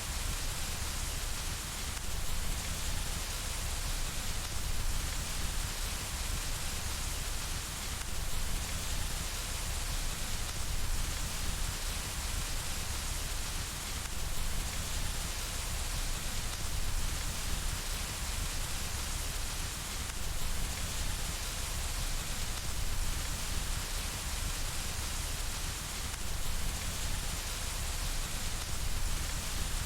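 Steady rain falling on window glass: an even hiss with a low rumble underneath.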